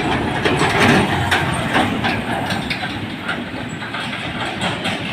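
Heavy truck driving past close by, its engine running under a loud rattling clatter of the body and load. The clatter is strongest in the first couple of seconds.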